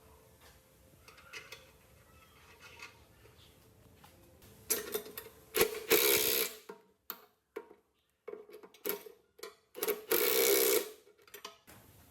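Short bursts of a small motor-driven machine or power tool with a steady hum and a hiss, several starts and stops with sudden silent cuts between them. The longest run is near the end. The first few seconds are quiet, with a few faint high calls.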